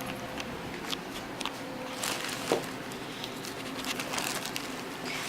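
Light crinkling and scattered clicks of food packaging being handled, a few short rustles among faint handling noises.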